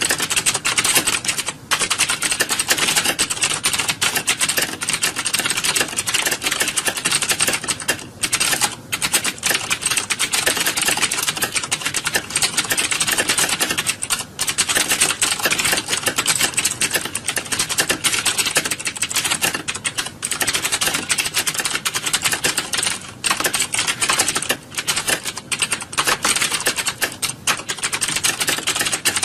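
Many computer keyboards clacking at once, dense overlapping keystrokes with no gaps, as in a hall full of people typing fast.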